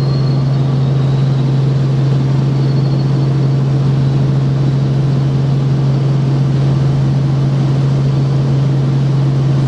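Helicopter in flight, heard from inside the cabin: a loud, steady drone of rotor and engine with a strong low hum.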